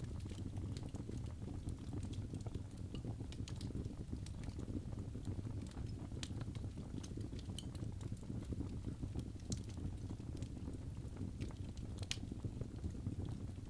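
Fire burning in a fireplace: a steady low rumble with scattered, irregular crackles and pops.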